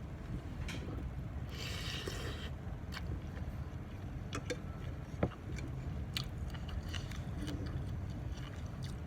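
Close-up eating sounds of Thai instant-noodle salad and pork sausage: chewing and biting, with scattered short cutlery clicks and a noisier stretch about two seconds in. A steady low rumble runs underneath.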